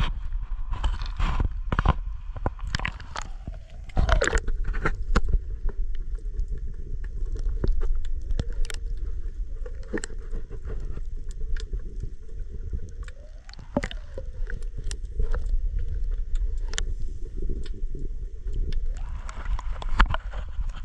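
Muffled water sounds from a camera dipped into the sea: a steady low rumble with many sharp knocks and clicks of handling.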